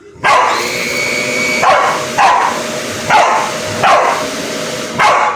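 A dog barks about six times at a running vacuum cleaner, whose steady whine starts just after the opening and cuts off near the end.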